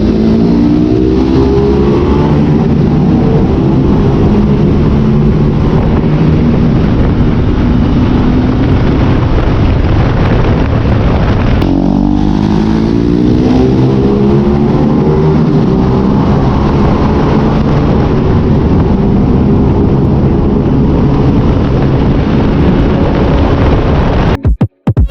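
Single-cylinder motorcycle engine under way with wind rush. It accelerates with a rising pitch at the start and again about halfway through, holding steady in between, and cuts out briefly near the end.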